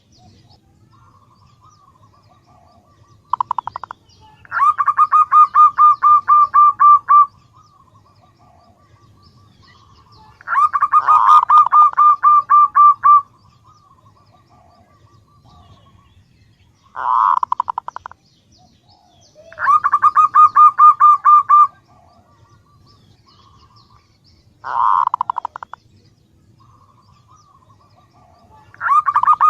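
Female zebra dove (perkutut) calling for a male. It gives repeated phrases of rapid, stuttering coos: a short burst, then a longer pulsed coo of two to three seconds, with soft faint notes between phrases.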